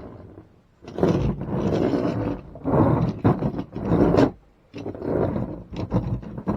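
A man making growling engine-roar noises with his voice for toy monster trucks, in about five rough bursts of a second or so each.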